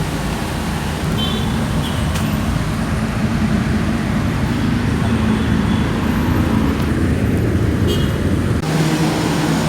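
Car engine running and road traffic noise at low speed in a traffic jam, a steady low rumble; the sound changes abruptly about nine seconds in.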